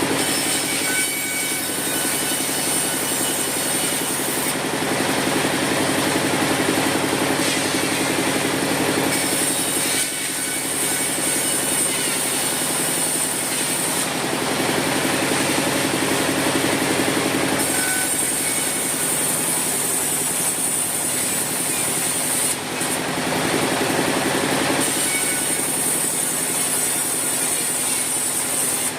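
Sawmill saw running steadily with a constant hum, while a high hiss comes and goes every four to five seconds.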